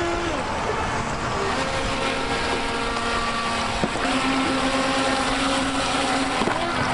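Small electric motors of toy RC jet boats (JetJam pool racers) whining, their pitch stepping and gliding up and down with the throttle, over a steady rush of creek water. A single sharp tick comes about four seconds in.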